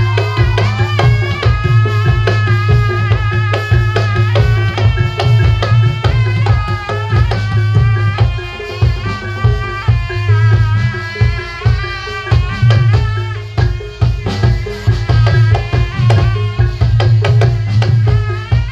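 Loud live barongan accompaniment music: drums and percussion beating a busy, steady rhythm over a deep sustained bass, with a melody line that bends in pitch.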